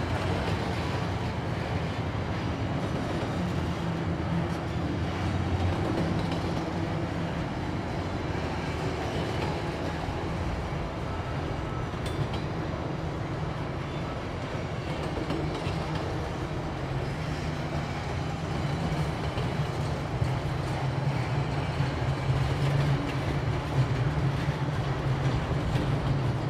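A train running on the rails: a steady low-pitched noise of diesel engines and rolling wheels, with some wheel clatter, growing somewhat louder in the second half.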